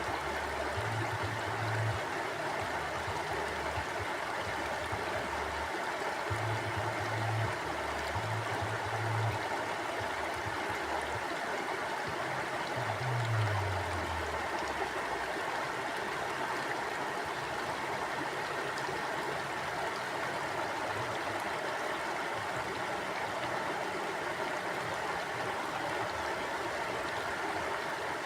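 Mountain stream flowing steadily over rocks, an even rushing wash of water. A few brief low rumbles come and go in the first half.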